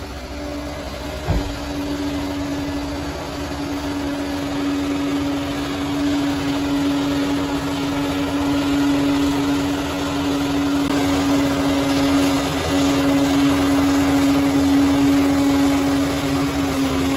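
Bulldozer's diesel engine running with a low rumble and a steady whine, growing gradually louder, with a single knock about a second in.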